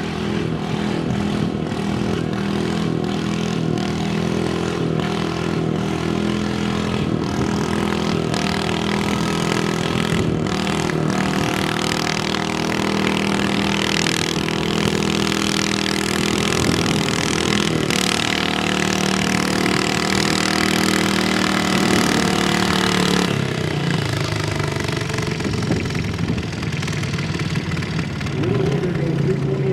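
Small pulling tractor's engine running hard at a steady high pitch under load during a pull, then throttling back about 23 seconds in.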